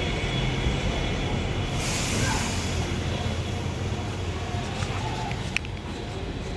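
Bus engine running with a steady low hum at a stop, with a one-second burst of air hiss about two seconds in, typical of a bus's air brakes or door pneumatics, and a single click near the end.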